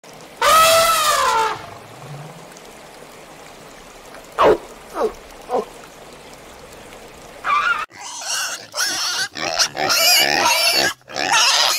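Animal calls: one drawn-out call that rises and falls, about half a second in, then three short calls falling in pitch, then a rapid run of noisy, irregular calls in the last few seconds.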